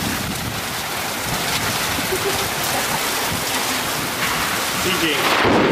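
Heavy rain pouring down and hitting the pavement in a steady hiss, swelling louder near the end.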